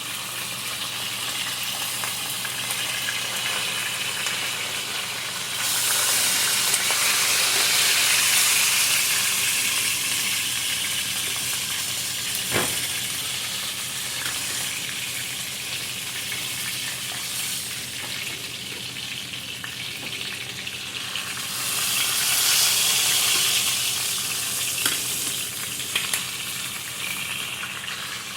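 Food sizzling in hot oil in a frying pan, a steady hiss that swells louder twice, with one sharp knock about halfway through.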